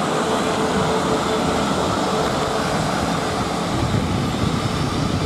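Eight-car South Western Railway Class 450 Desiro electric multiple unit moving along the platform, with a steady rumble of wheels on the rails.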